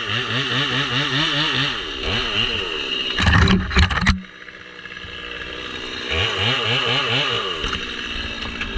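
Chainsaw running under load in a cut, its engine pitch wavering up and down. A loud, rough burst comes about three seconds in and stops sharply just after four seconds, with the saw dropping low. Around six seconds in it revs and wavers again before easing off.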